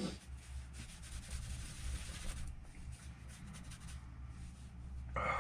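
Irregular rubbing and rustling handling noise, like fabric or objects being shifted about, over a steady low hum.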